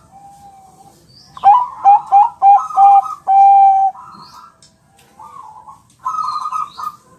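Zebra dove (Thai-bred perkutut bangkok) cooing: a quick run of short notes about one and a half seconds in, ending in one long held coo just before the four-second mark. Fainter coos follow near the end.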